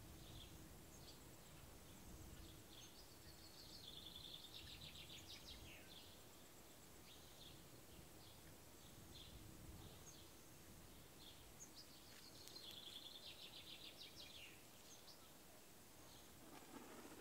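Faint birdsong: scattered short high chirps and a rapid trilled phrase that comes twice, about eight seconds apart, over a faint low rumble and a steady low hum.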